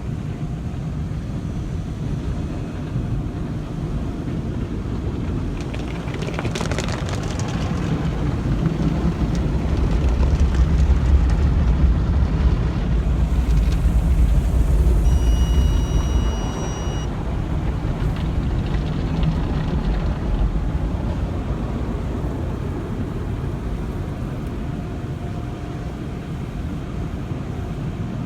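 Automatic car wash machinery running: a steady low rumble of spray and equipment that swells to its loudest around the middle. A steady high-pitched tone sounds for about two seconds partway through.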